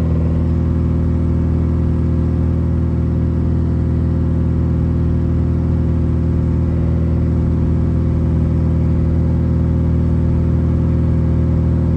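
BMW E36 engine and exhaust drone, held at a steady engine speed with an unchanging pitch.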